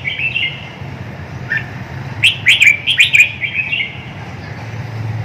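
Red-whiskered bulbul singing: a few short whistled notes, then about two seconds in a quick run of chirpy, liquid notes lasting about a second and a half. A steady low hum runs underneath.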